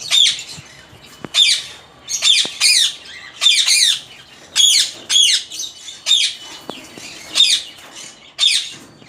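A pet bird calling over and over, short high calls coming about once or twice a second.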